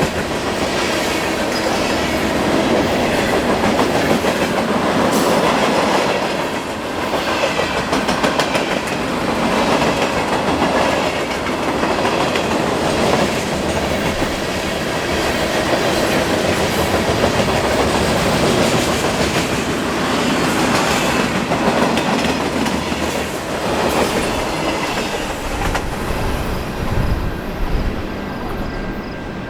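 Train rolling past, wheels clicking over rail joints amid steady wheel and rail noise, easing off near the end.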